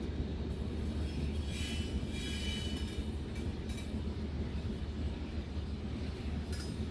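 Very long, heavy iron-ore freight train of the Zouérat line running on its rails: a steady low rumble, with a brief high squeal about two seconds in.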